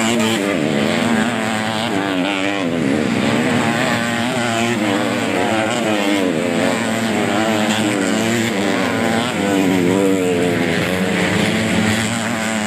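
Several underbone motorcycle engines racing together, revving up and down over and over, their pitches rising and falling and weaving over one another.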